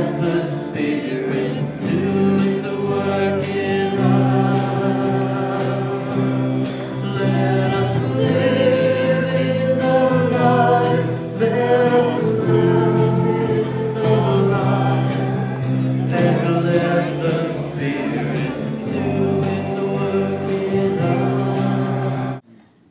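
Gospel choir singing with instrumental accompaniment and a steady beat of about two strokes a second; the music cuts off suddenly near the end.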